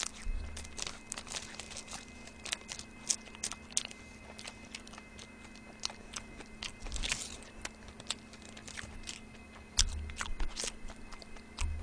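Close-miked crunching and chewing of a churro: irregular crisp bites and wet mouth clicks, some in quick clusters, with a few dull low bumps.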